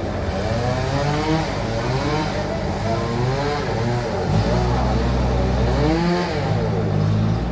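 Bandsaw sawmill machinery running with a steady low hum that shifts in pitch about halfway through, with repeated rising and falling tones over it.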